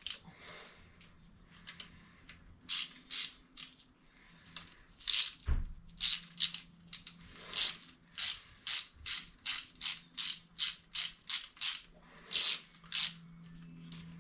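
Ratchet wrench being worked in short strokes, its pawl clicking. The strokes are irregular at first, then settle into about three a second near the middle before stopping.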